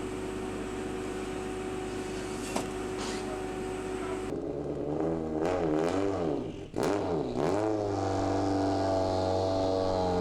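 MINI John Cooper Works WRC rally car's turbocharged four-cylinder engine running steadily, then from about four seconds in blipped up and down several times before settling to a steady, higher-pitched run.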